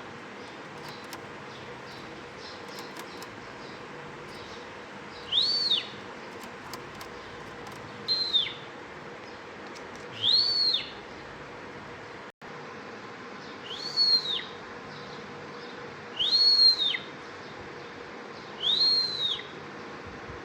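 Bimaculated lark giving a clear whistled note that rises and then falls, six times, about every two and a half seconds, over a faint steady hum.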